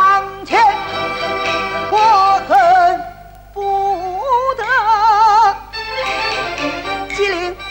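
Peking opera singing with a wide, wavering vibrato over orchestral accompaniment, with a brief break about three seconds in.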